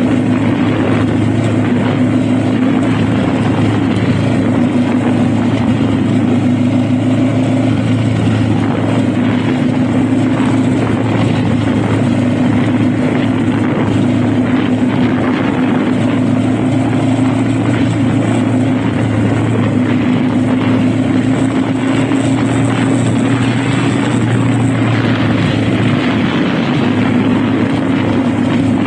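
Honda Rebel motorcycle engine running at a steady cruise, its pitch drifting only slightly with the throttle.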